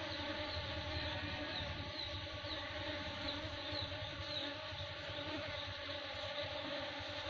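Asian honey bees (Apis cerana) buzzing steadily as they forage for pollen, many wingbeats blending into one continuous hum.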